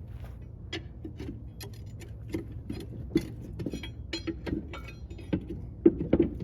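Irregular clinks and knocks of metal tools and parts, some with a short ring, over a steady low hum. The hardest knocks come near the end.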